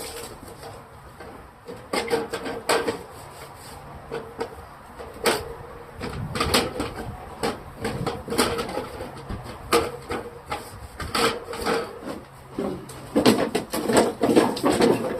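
Irregular clicks, knocks and clatter of items being handled, moved and set down.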